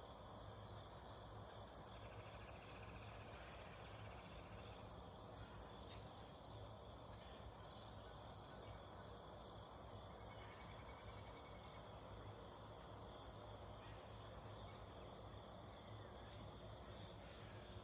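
Crickets chirping faintly and steadily: a regular chirp about twice a second over a continuous high trill.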